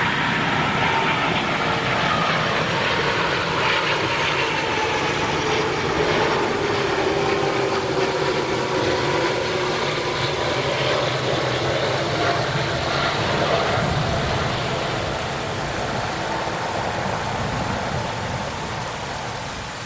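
Jet engines of a landing Airbus A330-300 airliner: steady, loud engine noise with several tones slowly falling in pitch, easing off over the last few seconds.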